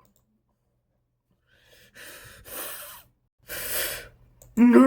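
A man breathing heavily, with two or three loud, hoarse breaths after a short silence. Near the end he starts a loud, drawn-out shout.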